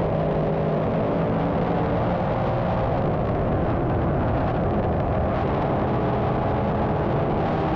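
Field of dirt modified race cars racing around the track under green. Several engines run together at speed in a steady, loud din.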